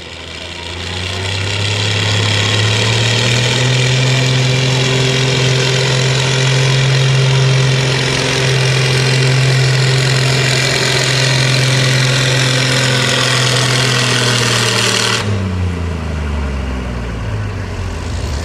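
Pulling tractor's engine run hard at full throttle, building over the first couple of seconds and then holding a steady high pitch with a strong hiss on top. About fifteen seconds in, the hiss cuts off suddenly and the engine's pitch falls as it winds down off the throttle: the end of the pull.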